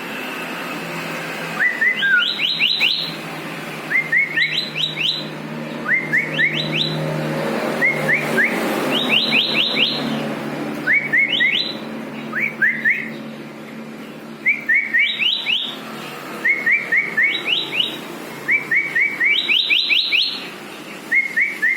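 Sooty-headed bulbul (kutilang) singing: short phrases of quick rising whistled notes, repeated about every two seconds, over a steady low hum.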